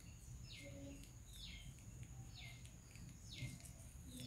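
Faint bird calls: a short call sliding downward in pitch, repeated about once a second.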